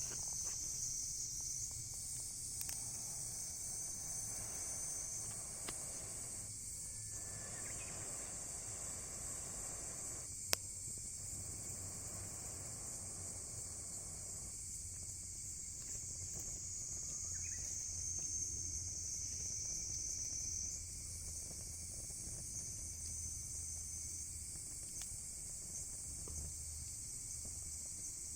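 Steady, high-pitched chorus of chirring insects, crickets by the sound tag, with a single sharp pop from the wood fire about ten seconds in.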